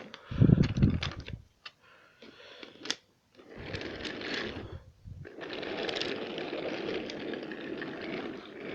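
Wooden toy train and trucks rattling along wooden track. There are a few heavy thumps about half a second to a second in, and a steady rattle from about five seconds on.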